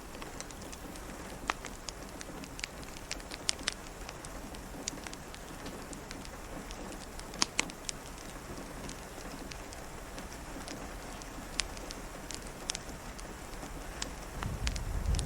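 Steady rain with scattered sharp crackles and pops from a wood fire. Near the end a low rumble of distant thunder begins to build.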